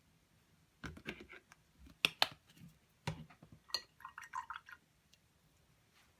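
Painting supplies being handled: scattered light knocks and clicks, then a quick run of about six short, ringing taps a little past the middle.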